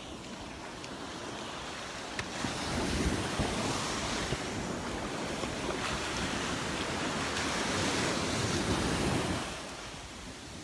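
Ocean surf washing onto the beach, with wind on the microphone; the rush swells a couple of seconds in and eases off near the end.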